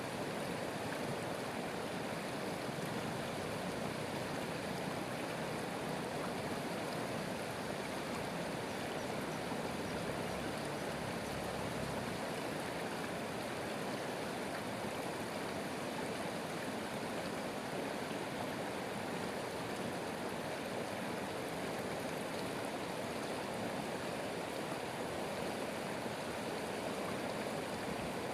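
Stream water running, a steady, even rush with no change throughout.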